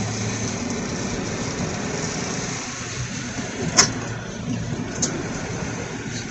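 Steady running noise of a car, a low hum under a wash of road noise, with a sharp click about four seconds in.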